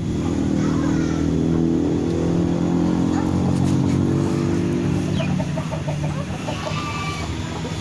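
A low, steady engine-like drone that eases after about five seconds, then a quick run of short pulses, with a few short high bird chirps over it.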